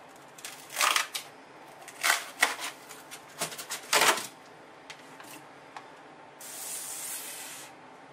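Crackling and snapping as styrofoam insulation and plastic are pulled off a basement block wall, several sharp crunches in the first half. About six seconds in comes a hiss of Moldstat mold disinfectant spraying from a sprayer, lasting just over a second.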